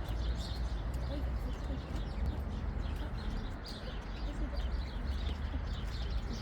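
A flock of small birds chirping continuously, many short high chirps overlapping.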